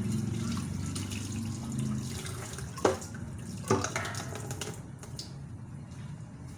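Tap water running into a kitchen sink, with two sharp knocks a little under a second apart about three seconds in. The rush of water thins out shortly before the end.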